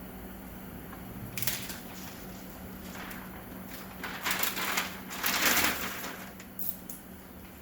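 Plastic window tint film being hand-cut and handled on the cutting board, crinkling in a few short bursts. The loudest stretch comes about two thirds of the way in.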